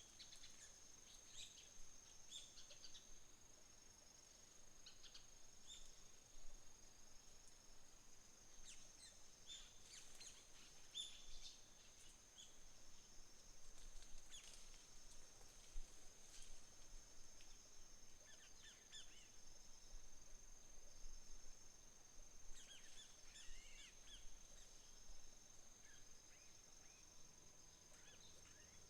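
Faint autumn-morning nature sounds: a steady, high-pitched insect trill throughout, with wild birds chirping and calling in several short clusters.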